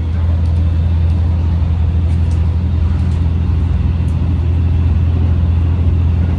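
Diesel railcar's engine running hard under power, a loud steady low drone heard from inside the car.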